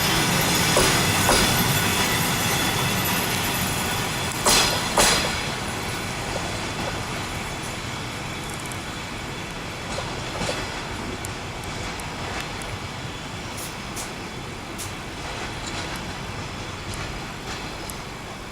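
Passenger coaches of a departing train rolling past on the track: a steady rumble with wheels clicking over rail joints, a sharp pair of clicks about four and a half seconds in and another pair around ten seconds. The sound slowly fades as the train pulls away.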